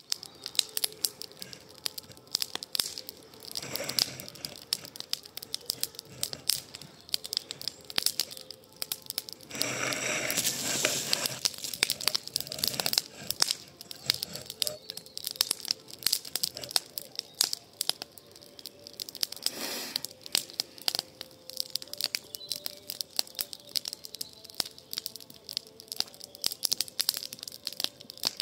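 Wood campfire crackling, with frequent irregular sharp pops and snaps of burning wood, and a louder stretch of rushing noise about ten seconds in.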